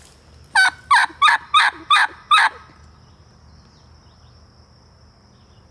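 A hunter's turkey call run in a series of six sharp hen yelps, about two and a half a second, to try to draw a gobble in reply. After it a faint steady high insect buzz carries on.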